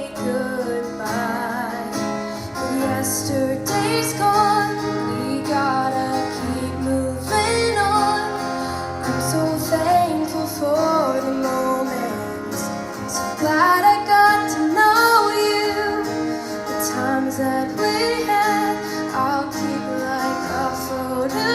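A sentimental song with a woman singing over instrumental backing.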